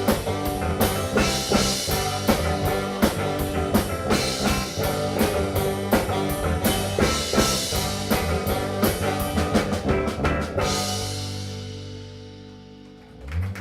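Live rock band with drum kit and guitar playing the instrumental close of a song, ending on a final chord that rings out and fades over about two seconds, followed by a short loud sound just before the end.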